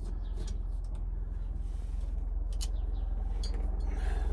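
Light metallic clicks and scrapes from a hand tool backing a screw out of a truck's steering column, over a steady low rumble.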